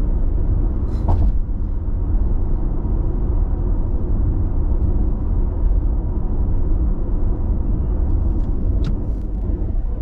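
Steady road and tyre noise of a car at expressway speed, heard inside the cabin as a low rumble, with a couple of faint ticks.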